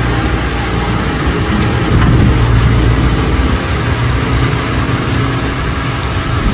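Heavy diesel engine of construction machinery running loudly and steadily, a little louder about two seconds in.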